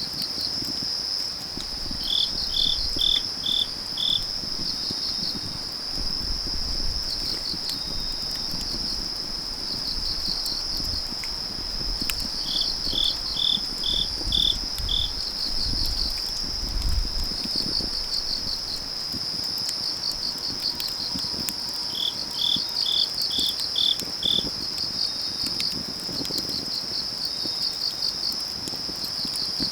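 Autumn night crickets: a steady high trill underneath, with another cricket chirping in runs of about six quick pulses that come back roughly every ten seconds.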